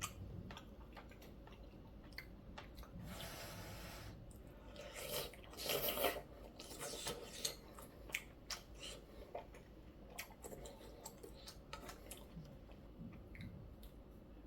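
Close-miked eating of noodle soup: wet chewing clicks throughout, with two longer slurps about three and five seconds in.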